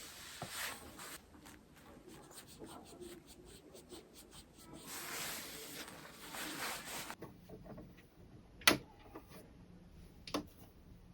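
Scratchy rubbing and scraping strokes of hand work on fabric or paper, with a sharp click about eight and a half seconds in and a smaller click near the end.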